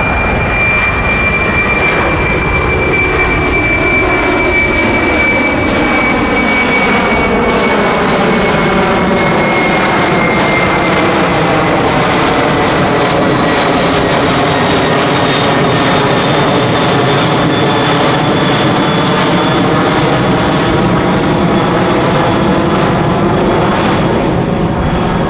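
Boeing 747-400F's four jet engines at takeoff power, a loud steady roar with a high fan whine that falls slowly in pitch as the aircraft passes.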